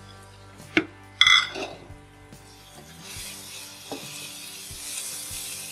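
Beef pieces and chickpeas frying in oil in a wok, stirred with a wooden spatula. Two sharp knocks come about a second in, the second ringing briefly. From about three seconds in the sizzling gets louder and holds steady.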